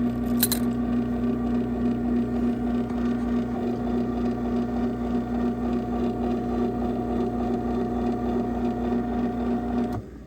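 Craftsman 139.53915DM half-horsepower belt-drive garage door opener running a closing cycle: a steady motor hum with a strong low tone, a few light clicks about half a second in, cutting off abruptly near the end.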